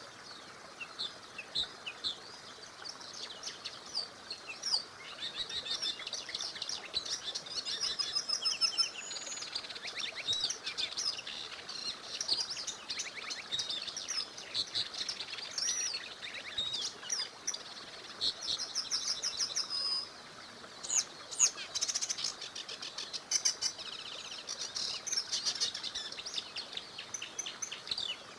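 Several songbirds singing and chirping over one another, with quick trills and repeated short notes, over a faint steady murmur of a small stream.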